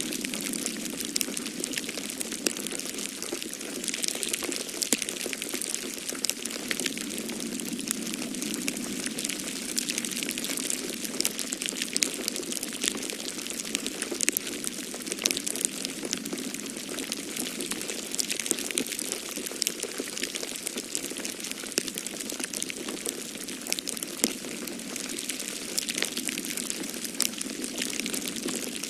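Wood fire crackling in a fireplace, a steady hiss full of frequent sharp pops and snaps, over a low steady rush of snowstorm wind.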